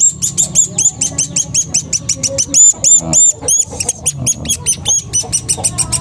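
A hand-reared young bird giving fast, insistent chirps, several short high notes a second, each rising and falling quickly: the noisy begging of a chick while it is being hand-fed.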